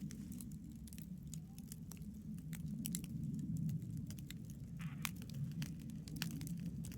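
Wood campfire crackling, with many irregular sharp pops and snaps over a steady low rumble of the burning fire.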